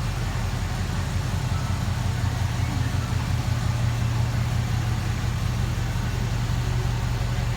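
1968 Chevrolet K10 pickup's engine idling steadily, with an even low rumble.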